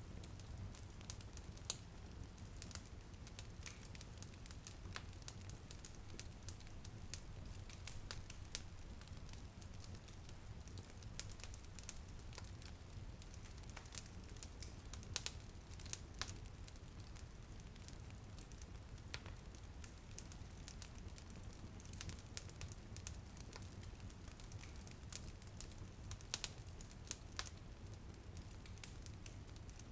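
Wood fire crackling in a fireplace, with irregular sharp pops and snaps over a steady low rumble and hiss; light drizzle patters on a window.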